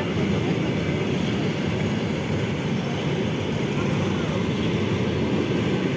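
A train passing, a steady low rumble of wheels on the rails.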